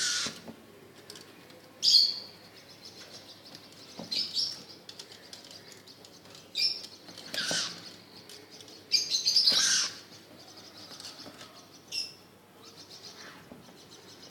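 Birds chirping in short, high bursts every second or two, with flurries of wing flapping mixed in; the longest and loudest flurry comes about two thirds of the way through.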